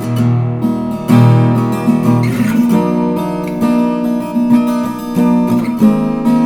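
Stafford SLG-360E acoustic-electric guitar strumming chords that ring on between strums, with new chords struck several times.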